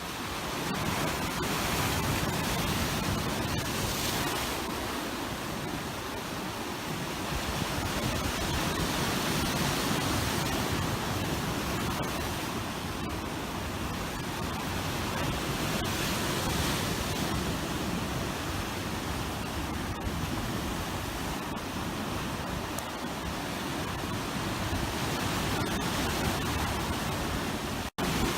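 Atlantic surf washing over granite shoreline rocks: a continuous rushing that swells and eases. It cuts out for an instant near the end.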